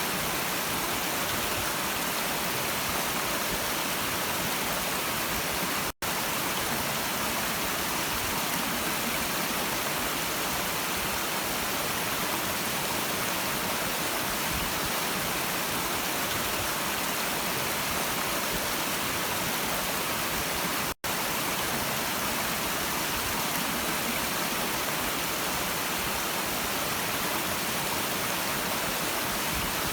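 Stream of water running steadily, an even rushing hiss. The sound cuts out for an instant twice, about fifteen seconds apart.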